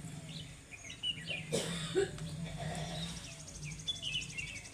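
Birds chirping in short calls, with a brief noisy burst about a second and a half in and a fast, high ticking trill starting about three seconds in, over a steady low hum.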